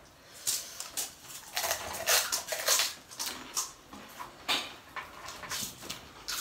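Eating and handling noises: sharp crackles and clicks of crisp pani puri shells being picked up and bitten, and of bowls and glasses being handled. The loudest run comes about two seconds in.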